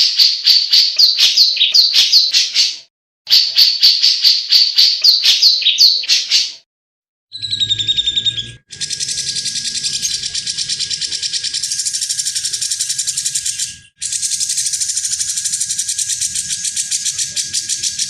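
Cucak jenggot (grey-cheeked bulbul) calling in rapid series of clear, high repeated notes, several a second. After short breaks partway through, it gives way to a denser, faster chattering song that carries on.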